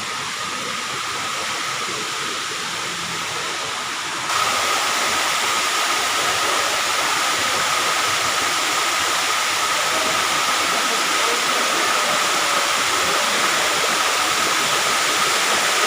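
Waterfall rushing, a dense, steady roar of falling water that jumps suddenly louder about four seconds in.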